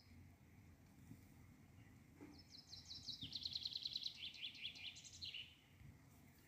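A songbird singing one rapid, trilled phrase of high notes lasting about three seconds, starting about two seconds in, stepping down in pitch partway and ending with a flourish, over a faint steady outdoor background.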